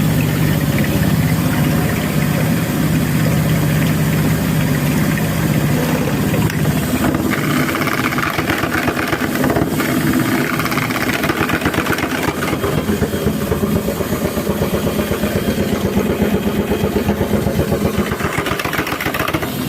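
Thomson washing machine running: a steady motor hum, then from about a third of the way in a fast, even pulsing as the drum turns.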